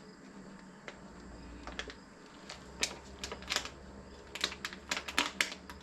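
Small, quick, irregular clicks of buttons being pressed on a handheld borescope: scattered at first, then in rapid clusters through the second half, over a faint steady hum.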